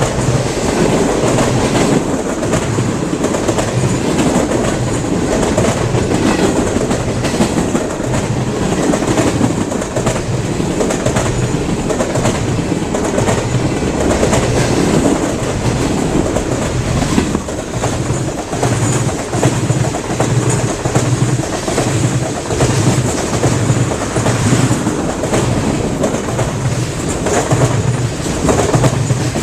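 A train rolling past close by, its wheels clicking over the rail joints in an even, repeating clickety-clack. The sound is loud and steady throughout.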